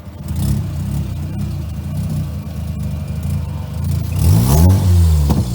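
Rebuilt Mazda Renesis two-rotor rotary engine running unsteadily, then a quick blip of the throttle about four seconds in that rises and falls back. The engine doesn't want to hold an idle.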